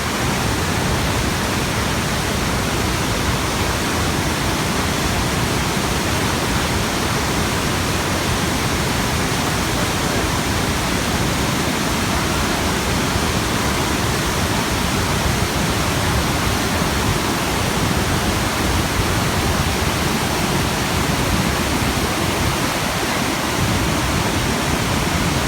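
The Rhine Falls' waterfall, a loud, steady rush of falling water that does not let up.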